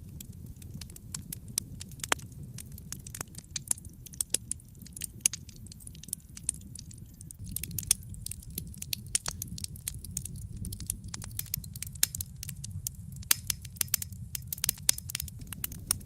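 Wood fire burning in a fireplace, with irregular sharp pops and crackles over a steady low rumble of flame; the crackling grows busier about halfway through.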